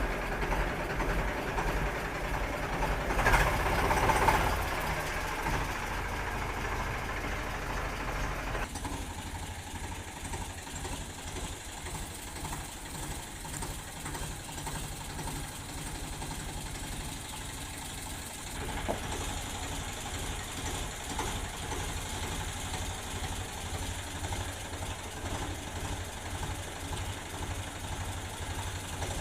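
Tractor engine idling with an even, steady pulse, with a brief louder burst about three to four seconds in.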